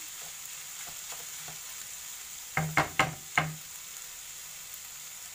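Minced meat, onion and carrot filling sizzling in a frying pan while being stirred. About two and a half seconds in come four sharp knocks in quick succession.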